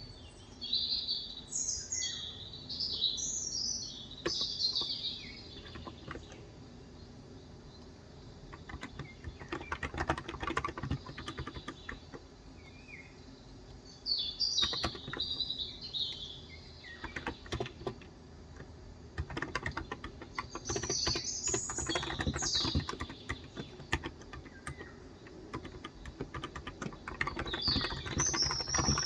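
Typing on a Cox Endeavor tenkeyless keyboard with electro-capacitive (Topre-style) 35 g switches, in bursts of quick keystrokes with short pauses between. A songbird sings short, high, chirpy phrases over it, four times.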